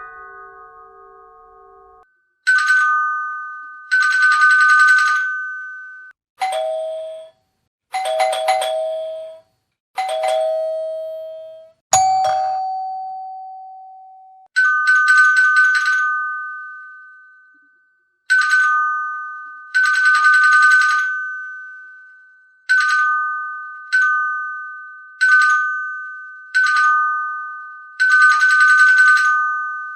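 Doorbell ding-dong chimes rung over and over, each a higher note falling to a lower one that rings out and fades. A lower-pitched chime sounds several times in the middle. Toward the end the rings come in quick succession, as if the button is pressed repeatedly.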